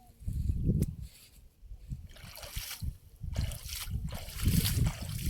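Water splashing and trickling in irregular bursts, over low thumping noise.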